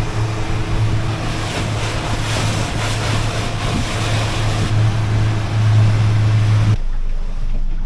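Small motorboat under way: the engine's steady low drone mixed with wind and water hiss, cutting off abruptly near the end.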